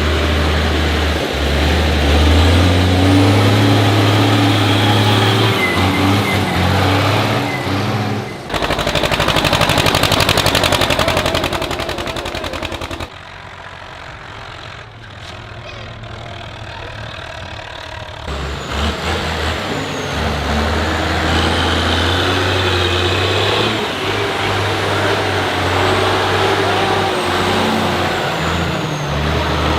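Tractor engines running in a string of short clips. A steady low engine note gives way about eight seconds in to a loud, rapid pulsing exhaust for some four seconds. After a quieter stretch, engine running resumes.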